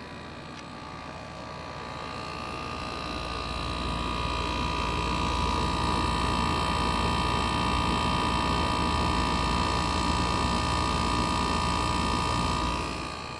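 LG 12,000 BTU air conditioner running on low fan with its compressor on: a steady hum with several steady whining tones. It grows louder over the first few seconds, holds steady, and falls off shortly before the end. The fan is running without vibration now that its motor mounting screws have been epoxied back down.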